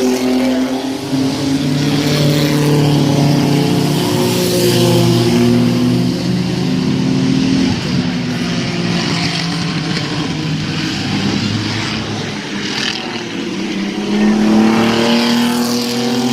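Several mini-truck race engines running hard on the track. The note dips in the middle, then climbs again about three-quarters of the way in as the trucks come back around.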